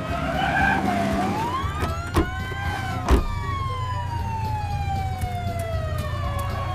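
A siren-like sound effect: one gliding tone rises for about two seconds, then falls slowly for about four, over a steady low rumble, with two sharp knocks a couple of seconds in.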